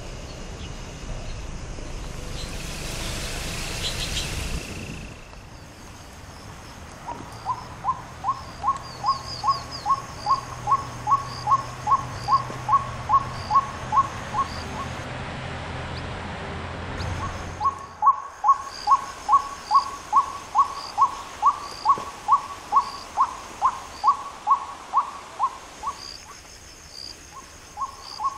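A bird calling a long run of short, evenly spaced hooting notes, about three a second, in two bouts with a brief pause between them; a fainter, higher chirp repeats behind it. A rushing noise comes before the calls in the first few seconds.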